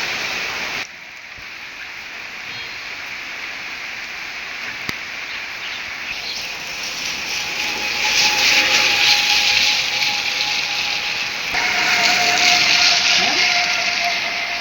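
Rain falling, a steady hiss that drops abruptly about a second in and grows louder again from about eight seconds in. A thin steady tone runs under it in the second half.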